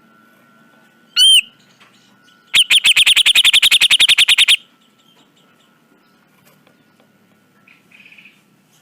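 Cucak jenggot bulbul calling: a single sharp note about a second in, then a fast rattling run of about twenty loud notes over two seconds, and a faint short buzzy note near the end.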